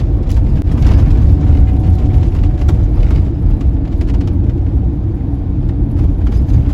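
An RV running down the road, heard from inside the cab: a steady, loud low rumble of engine and road noise, with a few light rattles.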